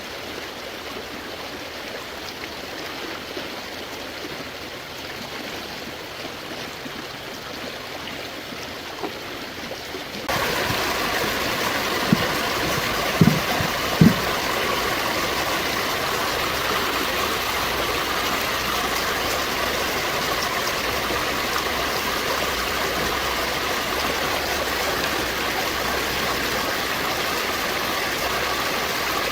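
Running stream water, a steady rushing wash. About ten seconds in it turns abruptly louder and brighter, and a few dull low thumps follow soon after.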